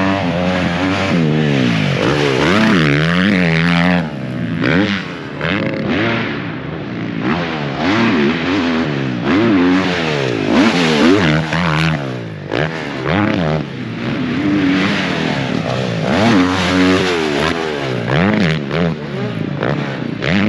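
Several motocross dirt bikes revving hard and shifting as they ride the track, their engine pitches repeatedly climbing and dropping and overlapping one another.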